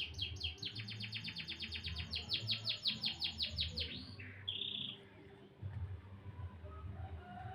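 Domestic canary singing: a rapid trill of repeated downward-sweeping notes, about seven a second, lasting about four seconds, then a short buzzy note about a second later.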